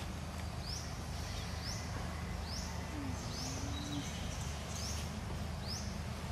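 A bird repeating a short, high, rising chirp about once a second, over a steady low rumble of outdoor background noise.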